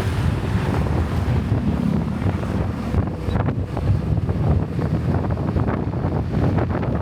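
Wind buffeting the microphone: a steady, fluttering low rumble of wind noise, with the sound of travelling on a road beneath it.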